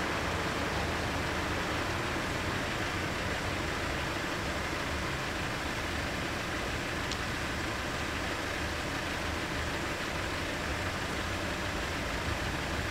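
Car engine idling close by as a steady low rumble under a wash of traffic hiss.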